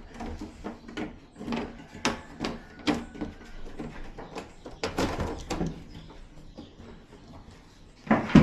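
Plastic TV frame and panel parts being handled and pressed together: a run of irregular clicks and knocks, then a sharper, louder knock near the end.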